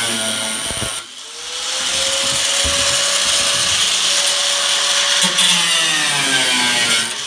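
Power cut-off tool cutting rusted sheet steel off a car's rear quarter panel. Its whine drops away about a second in and climbs back up as the wheel spins up again, sags in pitch as the wheel bites into the metal, and cuts out again near the end.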